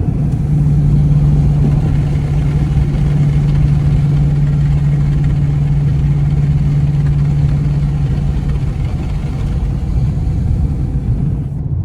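Dodge Charger R/T's HEMI V8 with its mid-muffler deleted, running loud with a steady low exhaust drone that holds one pitch for most of the time.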